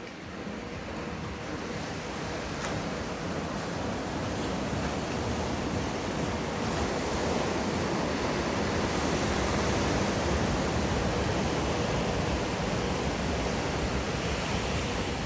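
Steady rushing of surf water in a wave pool, growing gradually louder over the first several seconds and then holding.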